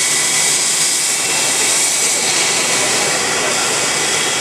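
Airbus A320's jet engines running loud and steady, a strong hiss with a faint high whine.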